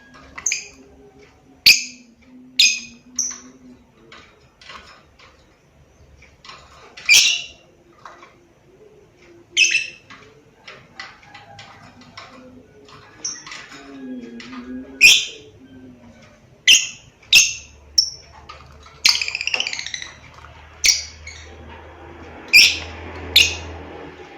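Lovebird calling: loud, short, shrill chirps, some single and some in quick runs of two or three, at irregular intervals, with a busier stretch of calls about three quarters of the way through.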